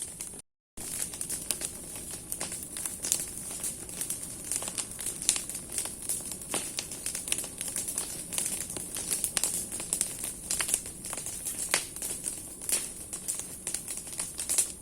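Bonfire of burning branches crackling, with many irregular sharp snaps and pops over a steady hiss. The sound cuts out completely for a moment about half a second in.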